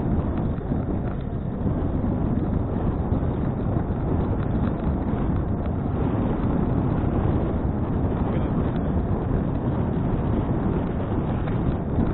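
Wind buffeting an action camera's microphone during a bicycle ride: a steady low rumble.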